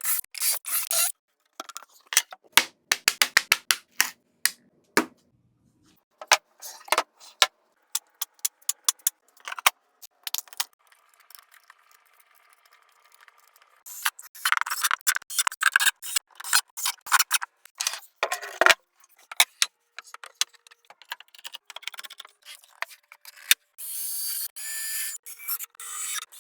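A run of short clicks, taps and scrapes of woodworking handwork with some metallic rattling, in separate bursts with short silent gaps between them.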